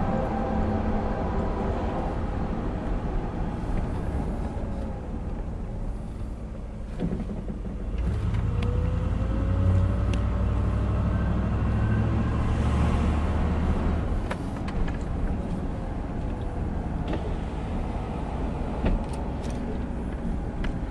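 Diesel freight train rumbling past, a low engine drone swelling about eight seconds in and easing off after about fourteen seconds, with scattered light clicks.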